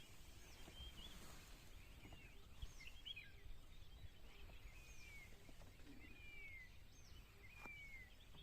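Birds calling faintly: a scatter of short chirps and downward-sliding whistles over low outdoor background noise.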